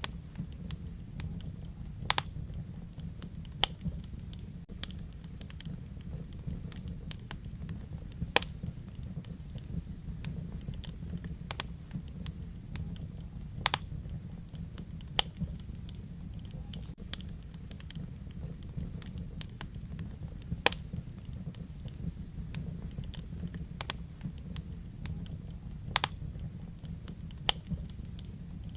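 Wood fire burning in a fireplace, a steady low rumble of flame with irregular sharp crackles and pops from the burning logs, a handful of them standing out louder.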